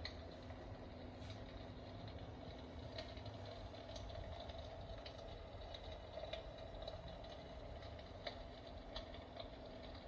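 Electric fireplace running: a faint steady hum and low rumble with scattered irregular clicks.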